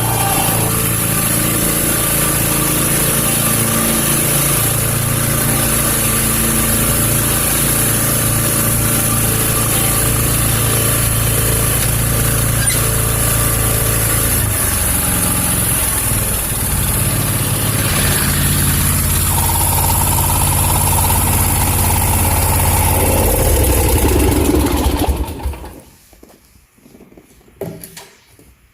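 Country Clipper zero-turn mower engine running steadily, then switched off about 25 seconds in, leaving only faint scattered sounds.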